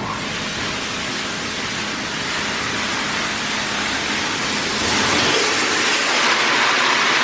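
Oasis Monsoon car wash's high-pressure water jets spraying against the car, a steady hiss that comes on sharply and grows louder about five seconds in. It is taken for the undercarriage wash.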